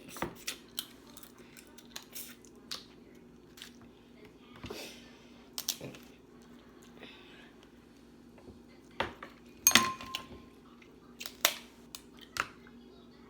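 Close-miked eating of snow crab: sharp, irregular cracks and snaps of crab shell, with chewing between them. The loudest crack comes about two thirds of the way through.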